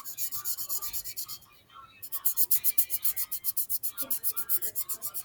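Colouring tool scribbling on paper in fast back-and-forth strokes, about nine a second, with a short pause under two seconds in.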